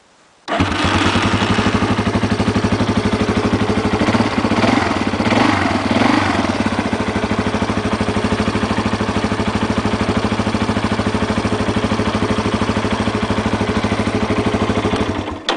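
Late-1990s Yamaha Warrior 350 ATV's single-cylinder four-stroke engine hot-starting at once, about half a second in. It revs briefly a few seconds later, then idles steadily until it is shut off just before the end.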